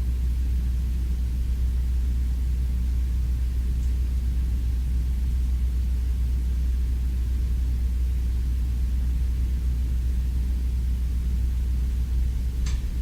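Steady low rumble with a faint hiss above it, unbroken throughout, and two short ticks near the end.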